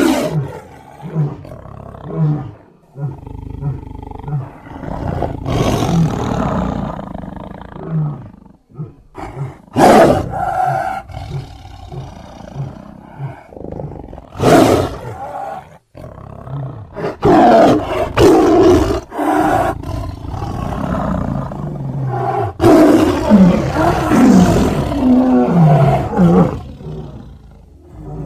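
Creature vocal sound effects built from big-cat recordings (lion, tiger and sabre-toothed cat): short low grunts at the start, then loud roars and snarls with short pauses between them, thickest in the second half.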